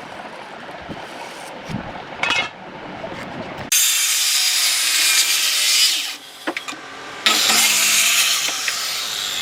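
Power tool working wood: after a few seconds of quieter knocking and scraping, a loud, harsh, high-pitched cutting noise starts suddenly about four seconds in, drops off briefly near six seconds, and starts again about seven seconds in.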